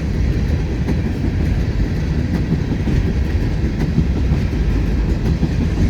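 Freight train passing at speed: a steady, loud rumble of the cars rolling over the rails, with faint scattered clicks.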